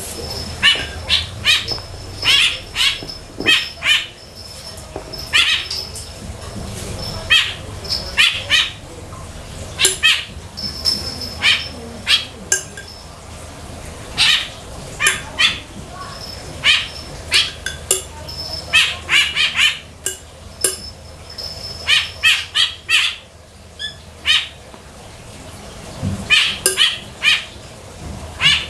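Small birds chirping in quick, irregular runs of short sharp notes, with a brief high steady whistle now and then.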